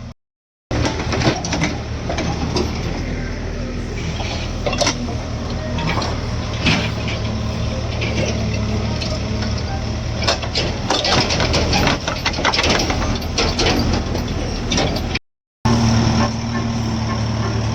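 Diesel engine of a JCB backhoe loader running steadily under load, with irregular cracks and crunching of soil and clods being scooped and dumped. The sound cuts out briefly twice.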